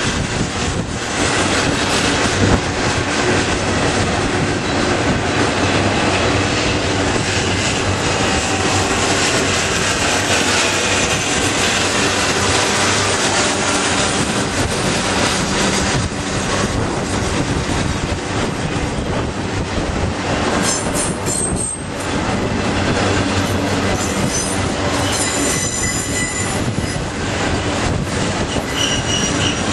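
A train's cars rolling past close by: a loud, steady rumble of steel wheels on rail with clicking over the rail joints. Thin, high-pitched wheel squeal comes in during the last few seconds.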